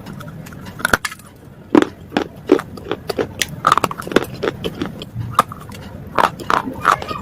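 Biting and chewing hard, brittle slate bars close to the microphone: a string of sharp, irregular crunches and cracks.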